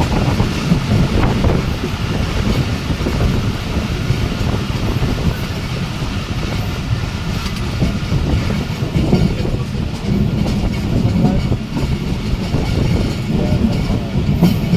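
Passenger train running at speed: a steady rumble of wheels on the rails with a continuous clatter over the track.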